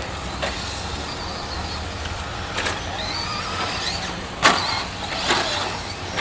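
Radio-controlled 2WD short-course trucks running on a track, their electric motors giving rising and falling whines under a steady drone of running gear and tyres. Sharp clacks of the plastic trucks hitting or landing, about five times, the loudest about 4.5 s in.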